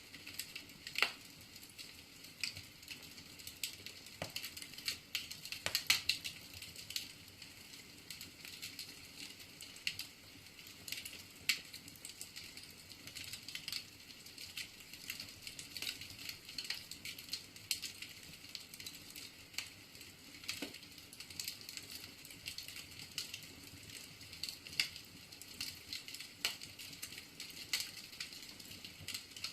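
Wood fire burning in a fireplace: irregular sharp crackles and pops from the burning logs over a steady, soft hiss.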